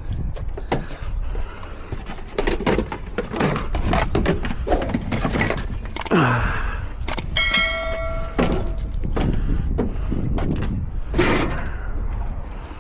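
Knocks and clatter of tools and metal parts being handled, with one clear metallic ring lasting about a second, some seven seconds in, over a steady low rumble.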